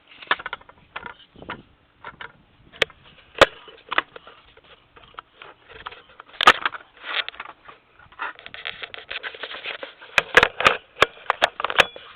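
Irregular knocks, clicks and scraping, as of tools and materials being handled during hands-on work, thickening into a rapid run of clicks and scrapes near the end.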